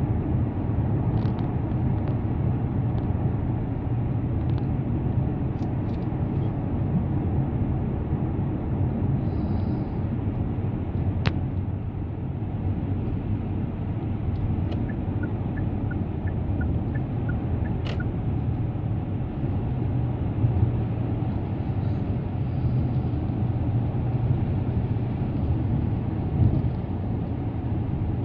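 Car driving at highway speed: steady low road and tyre noise with engine hum, and two sharp clicks in the middle.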